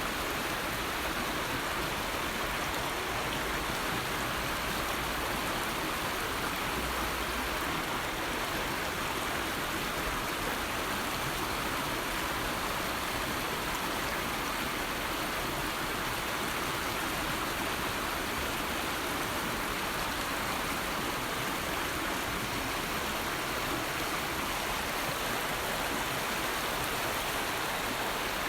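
A river flowing, its water making a steady, even rushing that does not change.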